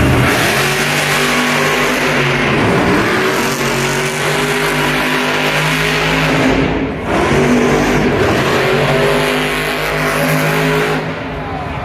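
Monster truck's supercharged V8 running loud under hard throttle in an arena, its pitch rising and falling as it revs, with a brief drop about seven seconds in before it picks up again.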